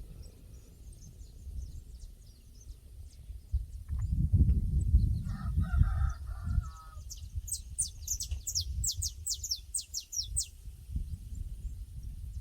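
Pasture ambience. A rooster crows once in the distance about halfway through, then a small bird sings a quick run of high, falling chirps. Wind rumbles on the microphone throughout.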